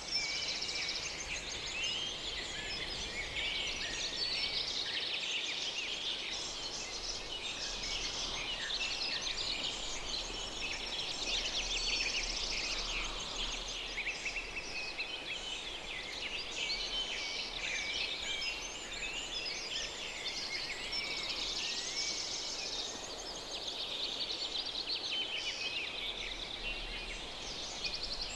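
Many birds chirping in a dense, continuous chorus of overlapping high calls.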